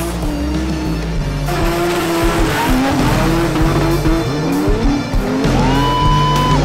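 Mark IV Toyota Supras drifting on a snow-covered frozen lake, their engines revving up and down over and over, over background music. A steady high tone comes in near the end.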